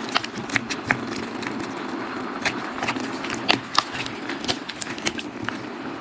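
Irregular sharp clicks and knocks, a few every second, over a steady background hiss.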